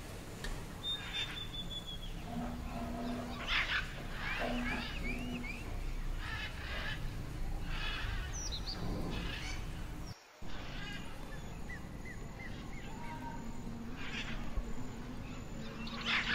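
Outdoor ambience with birds chirping and calling at intervals over a steady background hiss, with a brief drop-out about ten seconds in.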